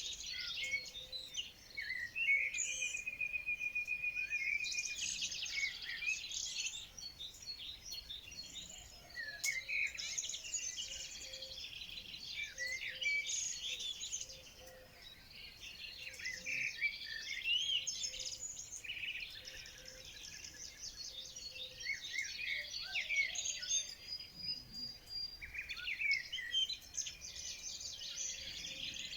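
Several birds singing and chirping at once, a dense chorus of quick high chirps, trills and whistles, with a rapid even trill from about two seconds in.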